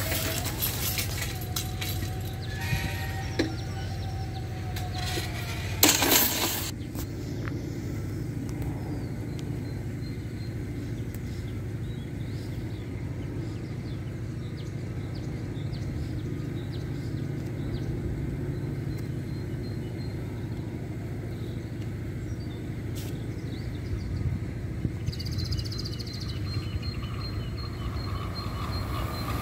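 Steady low outdoor rumble with a brief loud noise about six seconds in. Near the end a faint high rail hiss and a rising rumble mark an ICE-T high-speed train approaching along the track.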